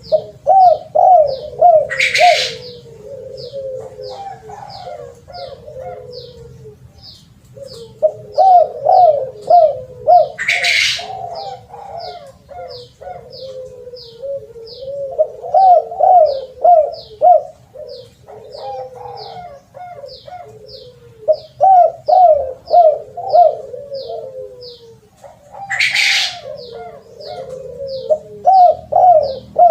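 Spotted dove (terkukur) cooing in repeated phrases of quick rhythmic coos, a new phrase every six or seven seconds, over a steady series of short high chirps about two or three a second. Three brief noisy bursts break in along the way.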